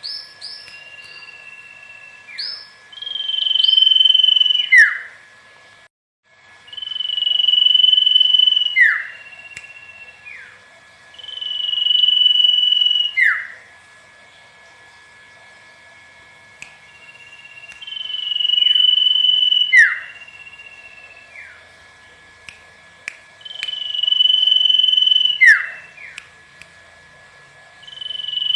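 Common iora singing: a long, steady whistle that ends in a quick downward slur, repeated about every five seconds, with short falling notes in between.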